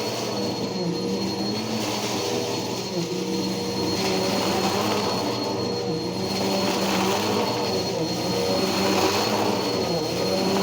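Bissell PowerForce Helix upright vacuum cleaner running and sucking up sawdust and wood shavings: a steady motor drone with a thin high whine, under a rushing air sound that swells and eases every couple of seconds.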